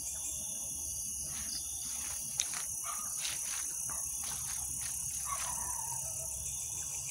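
Steady night chorus of crickets trilling, with a few faint calls and one short downward-sliding call about five seconds in, which is taken for a bird in the tree; a single sharp click about two and a half seconds in.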